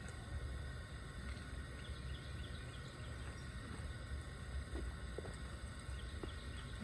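Outdoor ambience: a steady low wind rumble on the microphone, with faint bird chirps.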